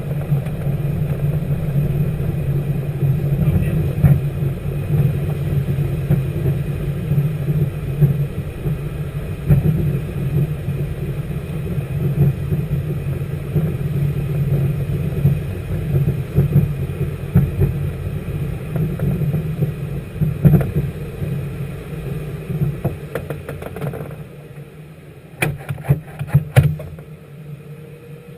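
Loud, steady engine drone of a running vehicle, which drops off near the end, with a few sharp knocks.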